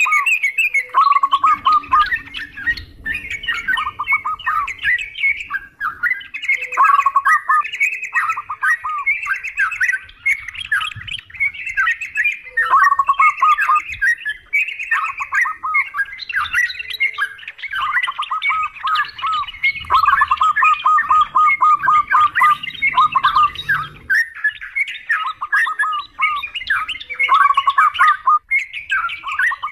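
Yellow-vented bulbuls chattering in fast, bubbly phrases, one after another with hardly a pause, with zebra dove calls mixed in.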